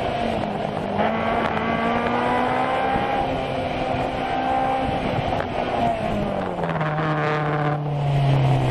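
Honda S2000's four-cylinder engine heard from inside the cabin, changing pitch as it is driven hard through cones for about six seconds, then dropping steadily in pitch as the car slows over the last few seconds. A steady hiss of tyres on wet pavement runs underneath.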